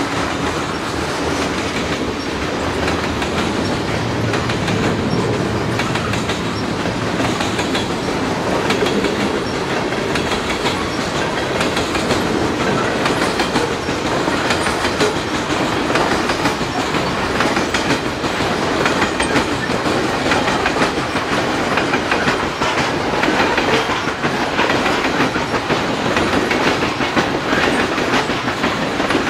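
Loaded coal cars of a freight train rolling past close by: a steady rumble of steel wheels on rail with a constant run of clicking and clacking over the track.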